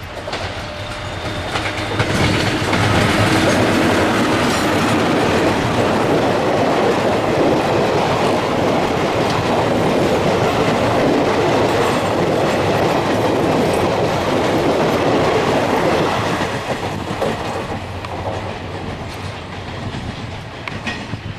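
Electric-hauled Indian express passenger train passing close at speed, its wheels clattering over the rail joints. The sound swells in the first couple of seconds, stays loud for most of the time, then recedes after about three-quarters of the way through.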